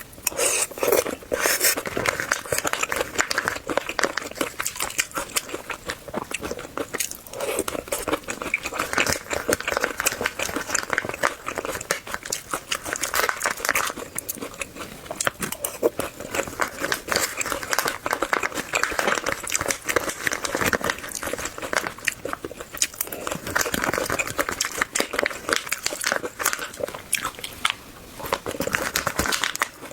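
A person chewing sweet corn kernels close to the microphone: a steady run of small, wet crunches and clicks with a few short pauses.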